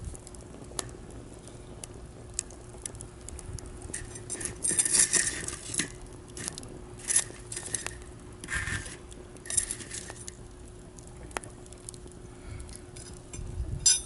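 Wood campfire crackling, with scattered sharp pops and several short, louder bursts of crackle.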